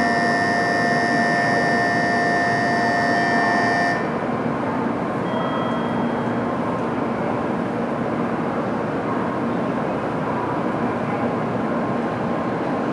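A steady electronic buzzer tone sounds for about the first four seconds and cuts off. Under and after it runs the even rushing noise of an E2 series Shinkansen train approaching and pulling into the platform.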